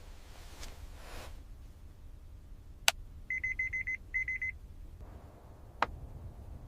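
Electronic alarm beeping: a quick run of high beeps, a brief pause, then a shorter run, with a sharp click just before and another about a second after, over a low steady hum.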